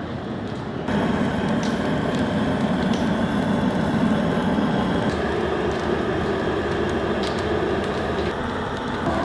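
Cooking over a wood fire: a steady rushing, bubbling noise with a few faint crackles. It jumps louder at a cut about a second in.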